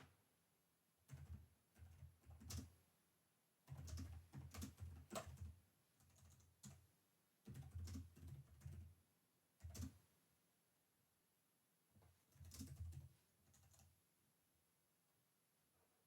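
Computer keyboard being typed on quietly, in about five short bursts of rapid keystrokes with pauses of a second or so between them.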